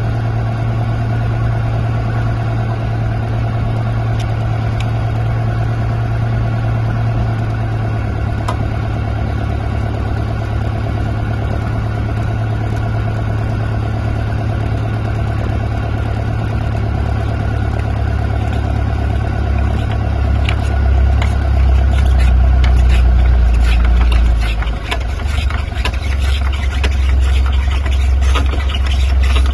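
An engine running steadily at a low hum. It gets louder and rougher about two-thirds of the way through, with rattling clicks over it.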